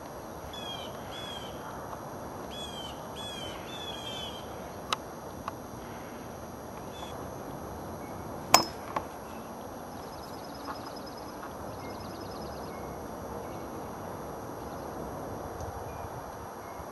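Outdoor background noise with a bird repeating short downward-sliding chirps over the first few seconds. A few sharp knocks follow, the loudest about halfway through, then a faint rapid trill.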